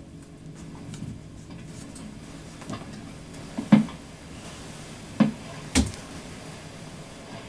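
Three sharp knocks in the second half, each with a short low ring, over a faint low hum that fades out before the first knock.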